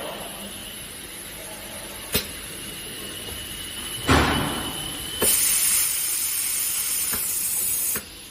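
Ultrasonic plastic welding machine running a weld cycle. A sharp click, then a short rushing burst about four seconds in. Then a loud, very high-pitched hiss from the welding horn lasts about three seconds and cuts off suddenly near the end.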